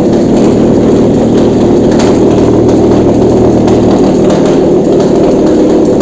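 Nissan VQ35DE 3.5-litre V6 engine running steadily on an engine test stand, loud and even. Its low hum shifts slightly about four seconds in.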